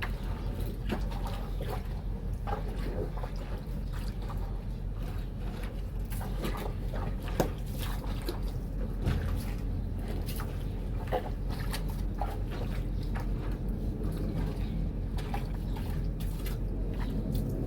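Water sloshing and splashing in irregular strokes as bedsheets are washed by hand in a basin of soapy water, over a steady low rumble.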